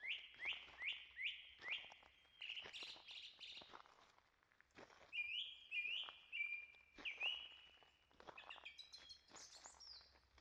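A songbird singing two phrases of quick repeated clear notes, each run ending in a few higher notes, with quiet footsteps along the trail between and under the song.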